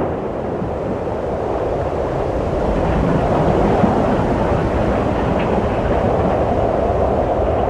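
Steady, low rushing wind that swells a little partway through.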